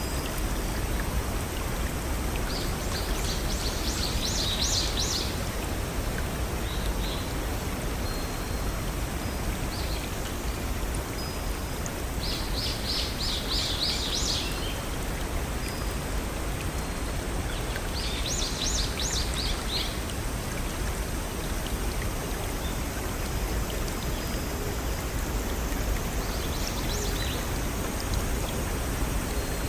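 Steady rush of a small forest stream and waterfall, with a songbird singing a short phrase of rapid repeated high notes four times over it.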